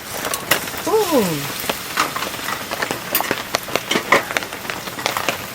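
Heavy rain falling, a dense patter of sharp, irregular drop hits. About a second in, a short falling vocal sound from a person.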